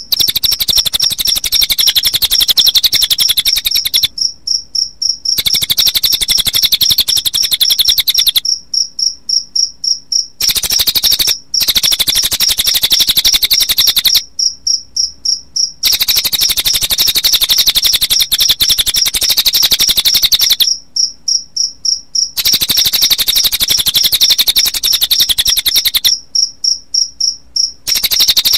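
Recorded cililin bird song mixed with cricket chirping, played as a songbird training track: a loud, very rapid high-pitched trill repeated in phrases of a few seconds, each broken by a short pause.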